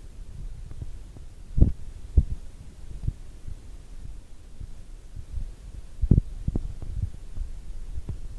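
Low rolling rumble of thunder with several dull thumps, two pairs about half a second apart.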